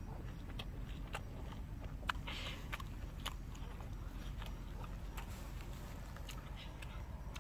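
A boy chewing grilled tiger prawn close to the microphone: irregular sharp mouth clicks and smacks over a low steady background rumble.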